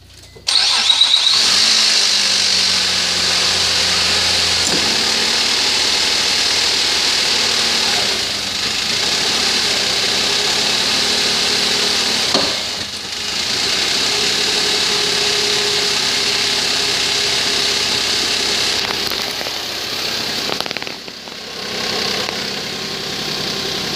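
A 2006 Nissan Maxima's 3.5-litre V6 cranks and catches about half a second in, then runs steadily in gear with the front wheel spinning. This is an engine the seller rates as bad. The sound dips briefly twice, once around the middle and once near the end.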